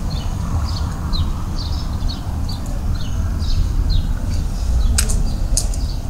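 Small birds chirping over and over, short falling chirps at about two a second, above a steady low rumble. A few sharp clicks come near the end.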